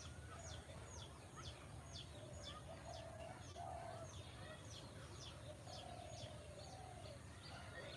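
A small bird calling faintly with a steady run of short, high chirps that drop in pitch, about two a second, over a low background rumble.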